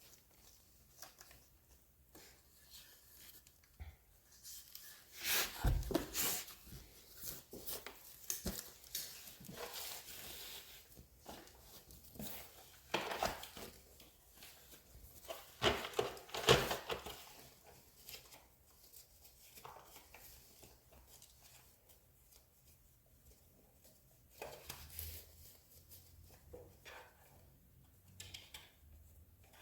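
Intermittent rustling, crinkling and knocking of packaging as a robot vacuum is lifted out of its box and its protective bag. The loudest handling bursts come about a fifth of the way in and about half way through, with quieter stretches between.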